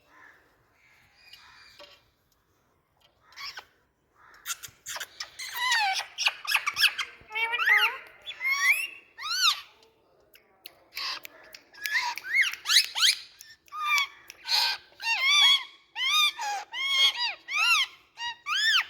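Indian ringneck parakeet giving a rapid series of short, high-pitched squawks, starting about four seconds in, with a brief pause near the middle.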